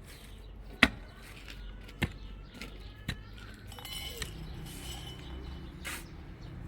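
A series of sharp knocks, roughly one a second for three strikes, then one more near the end.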